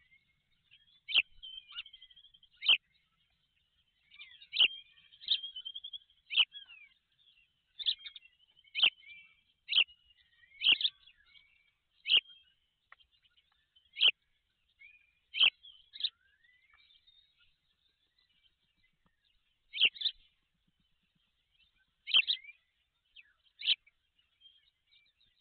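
Birds calling: a series of short, sharp high chirps about a second apart, irregularly spaced, with quieter twittering between them and a few seconds' pause past the middle.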